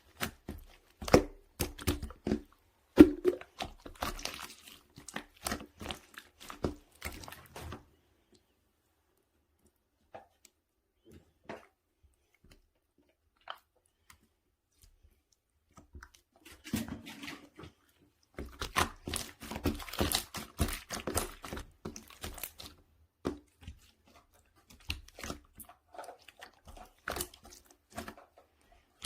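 Soft, wobbly pudding-jelly slime being squished and pressed by hand, making dense wet clicks and pops. About eight seconds in it goes almost quiet for several seconds, with only a few faint ticks, then the squishing starts again.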